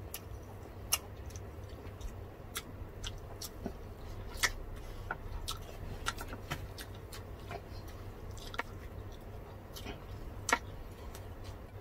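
Two people eating grilled pork belly, roast chicken and rice with their hands: scattered sharp clicks of chewing and lip smacks, close to the microphone, over a low steady hum.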